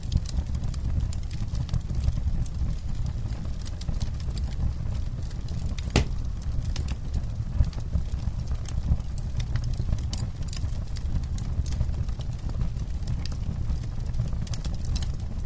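Wood campfire burning: scattered sharp crackles and pops over a low, steady rumble, with one louder pop about six seconds in.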